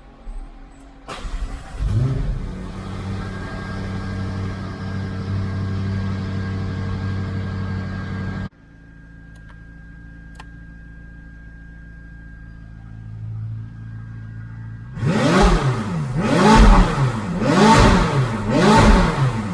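McLaren 570S twin-turbo V8 through an FI Exhaust full system with catless downpipes, starting up about a second in and settling into a steady idle. Partway through the level drops suddenly to a quieter idle, then the throttle is blipped four times near the end, each rev rising and falling.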